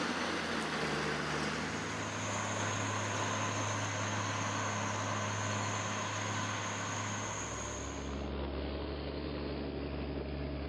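Steady running of engine- or motor-driven machinery, with a constant high whine over the hum. About eight seconds in the sound shifts to a lower, steady hum without the whine.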